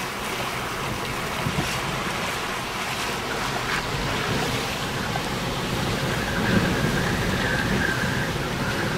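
Strong wind buffeting the microphone over wind-driven waves surging in against a seawall, a steady rushing noise with a low rumble.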